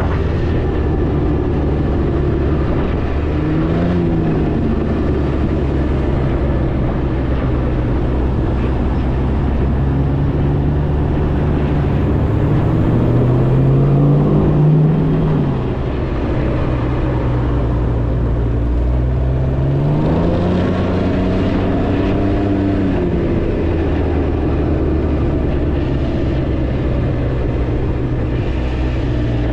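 A Can-Am three-wheeled motorcycle's 900 cc engine running while riding, with wind rush. The engine pitch rises and falls with the throttle three times, around 3 s, 13 s and 21 s, and is loudest about 14 s in.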